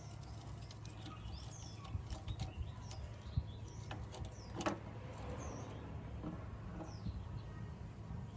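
Small birds chirping in short, repeated calls over a steady low hum, with a few light taps and a knock about four and a half seconds in.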